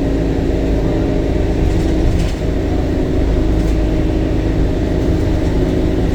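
Temsa Avenue LF city bus's DAF Euro 5 diesel engine running at a steady pitch, a continuous drone with low rumble. A few faint clicks or rattles come about two seconds in and again near four seconds.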